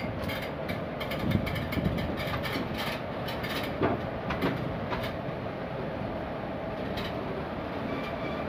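A WAP-4-hauled passenger train rolling slowly, heard from alongside its coaches. A steady rumble of wheels on rail carries a quick run of sharp clicks and knocks over the first five seconds or so, as the wheels cross points and rail joints, then settles into a steadier run.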